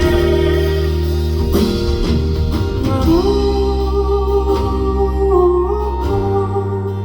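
Live rock band playing sustained chords, with a lead line that holds one long note from about three seconds in until about six seconds in.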